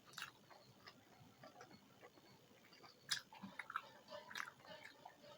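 A person chewing food: faint, scattered wet clicks and small mouth smacks, a little busier in the second half.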